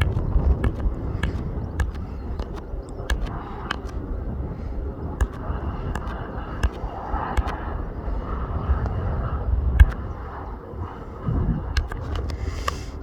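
Wind buffeting the microphone in a heavy low rumble with scattered sharp clicks, over a faint steady whine from an arriving light aircraft's engines.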